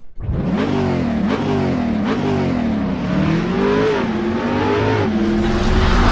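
Engine revving in repeated quick blips, its pitch rising and falling, then in slower, longer swells.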